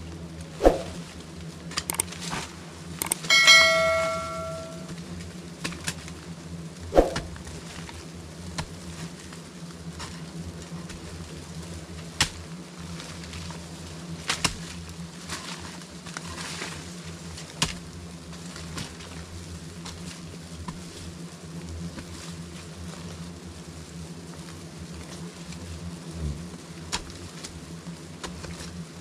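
A swarm of bees buzzing in a steady low drone. Scattered sharp knocks and snaps cut through it, the loudest about a second in and about seven seconds in. A short ringing tone with a clear pitch lasts about a second and a half, some three seconds in.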